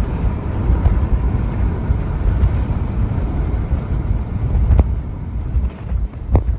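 Car driving on the road: a steady low rumble of road and engine noise with wind buffeting the microphone. A couple of sharp clicks come near the end.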